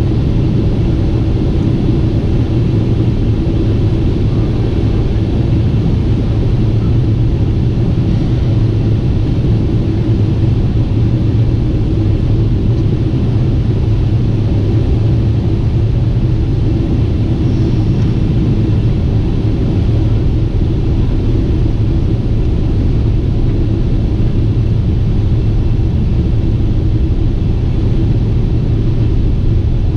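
Steady low rumble of a Boeing 747-8 airliner in flight, from its jet engines and airflow, heard inside the cabin. There is a faint steady hum under the rush.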